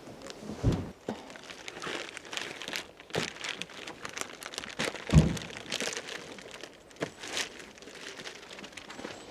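Irregular rustling and crinkling, with two dull thumps, one near the start and a louder one about five seconds in, in a small enclosed space.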